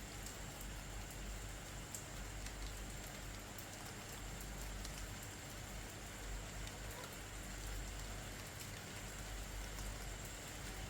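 Steady night rain falling, with scattered sharp raindrop ticks over an even hiss, and a faint steady high tone running underneath.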